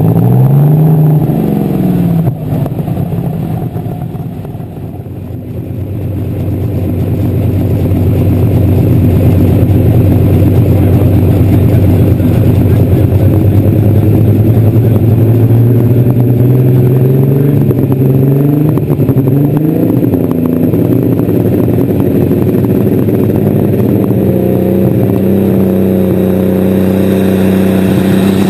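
Light Super Stock pulling tractor's engine heard from on board, revving, dropping back for a few seconds, then running hard under load, with pitch shifts near the middle and a rise at the end.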